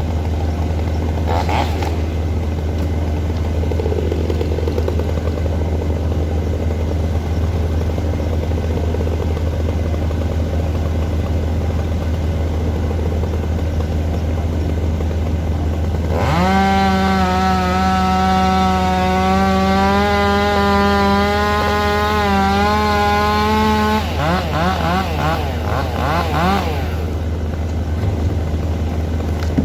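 A machine's engine running steadily. About 16 seconds in, a second, higher-pitched engine sound rises and holds steady for about eight seconds, then wavers up and down briefly and stops.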